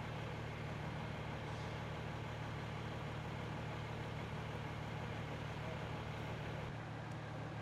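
A vehicle engine idling steadily with a constant low hum, over a steady haze of outdoor background noise.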